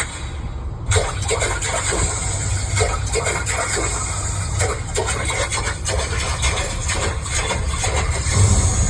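Car driving in heavy rain: a steady low engine and road rumble with rain hiss, and from about a second in many irregular taps of raindrops striking the car.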